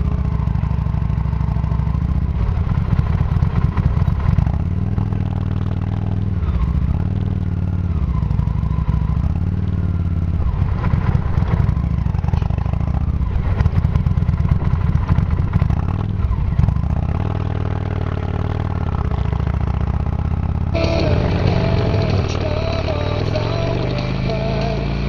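Motorcycle engine running under way, its pitch shifting in steps, then rising as it speeds up near the end, with clattering over the top.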